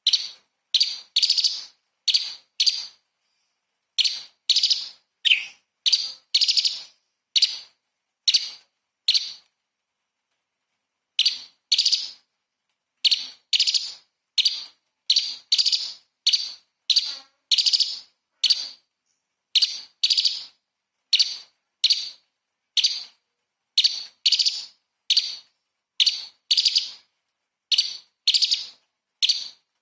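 Cucak cungkok leafbird calling in a rapid run of short, sharp, high-pitched notes, about one to two a second, broken by brief pauses.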